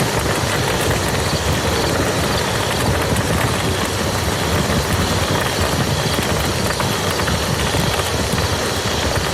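Steady rain falling on a muddy field, an even wash of drops with fine scattered patters.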